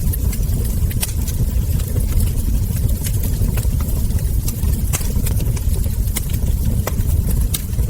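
Wood fire crackling, with irregular sharp pops and snaps from the burning logs over a steady low rumble.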